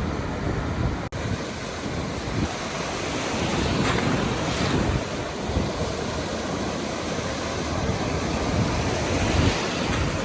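Surf washing onto a beach, with wind buffeting the microphone. The sound cuts out for an instant about a second in.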